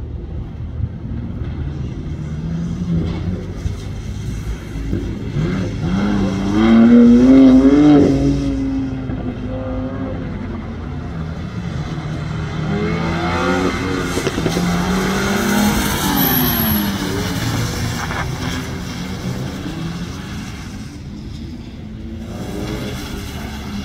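Sports car engines revving hard and easing off as cars are driven through a tight gymkhana course, the pitch climbing and dropping with each burst. The loudest run of revs comes about seven seconds in, with another long stretch of rising and falling revs about halfway through.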